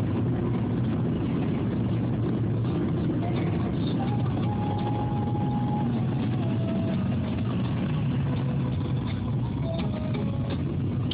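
Steady engine and road noise of a car being driven, a low, even rumble.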